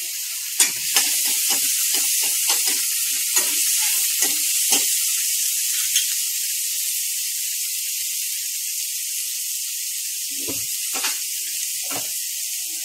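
Chopped onion, tomato and green chilli sizzling steadily in oil in a nonstick pan, with a spatula scraping and knocking against the pan in a string of strokes for the first five seconds and a few more near the end.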